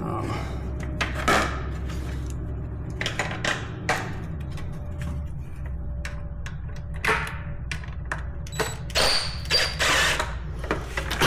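Hand tools and metal parts clicking and clanking at irregular intervals while parts are being unbolted from an ATV, over a steady low hum.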